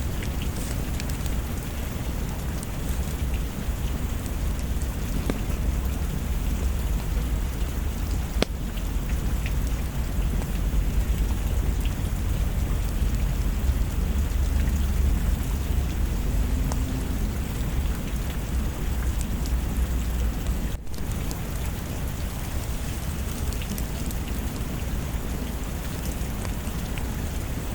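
Steady heavy rain with a deep low rumble of thunder under it. The rumble cuts off abruptly about 21 seconds in, with a brief dropout, and the rain carries on. Small sharp ticks are scattered throughout.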